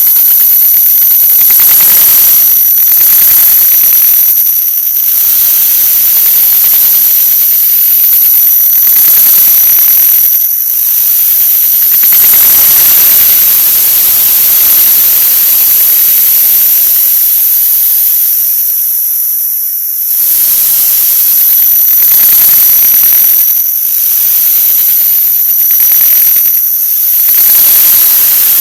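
A 'wah wah' sound effect sped up so far that it has turned into a loud, harsh static-like hiss, with steady high whistling tones through it. It drops out briefly about nineteen seconds in.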